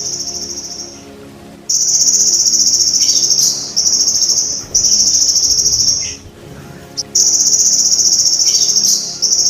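Golden grasshopper (belalang emas) stridulating: a high, fast-pulsed buzzing trill in repeated phrases of one to two seconds, broken by short pauses.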